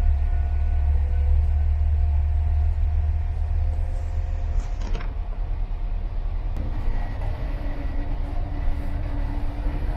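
Moving passenger train heard from inside the carriage: a steady deep rumble of the wheels on the track with faint steady whining tones. The whine changes pitch a little past halfway, just after a short sharp tick about five seconds in.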